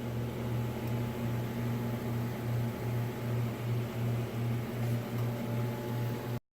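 Steady low electrical-mechanical hum with a faint regular pulsing, like a shop fan or motor running. It cuts off abruptly near the end.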